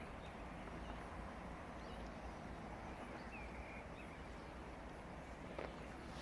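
Faint outdoor ambience: a steady low rumble with a few short, high chirps.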